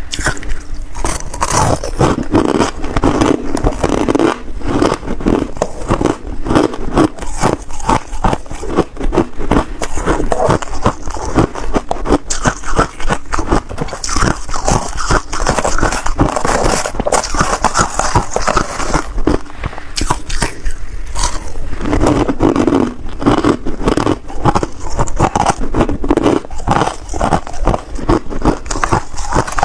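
Ice being bitten and chewed close to the microphone: dense, irregular crunching and cracking of ice between the teeth, without a break.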